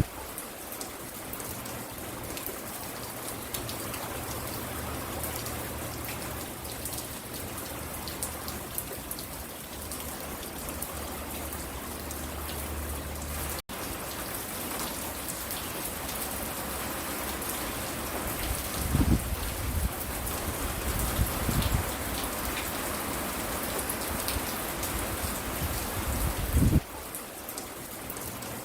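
Steady rain falling on a porch, an even hiss of drops. It cuts out for an instant about halfway through, and a few brief low rumbles come through in the second half, the loudest near the end.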